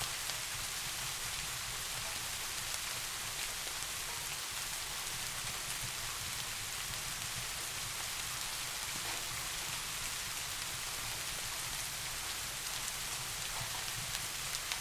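Steady soft rain: an even hiss with faint scattered drop ticks.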